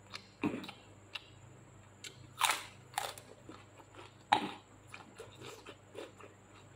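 Close-mouthed chewing and crunching of a raw pak choy stalk, with a few sharp, loud crunches among smaller wet mouth clicks.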